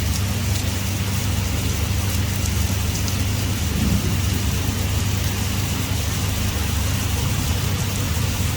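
Heavy rain pouring steadily, a dense even hiss with a strong low rumble beneath it.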